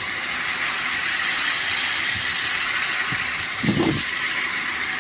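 Steady rushing roar of strong storm wind, with a few dull low thumps, the loudest nearly four seconds in.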